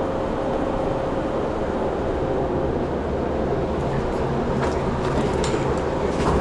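Steady drone of running machinery with a constant hum, and a few faint clicks in the second half.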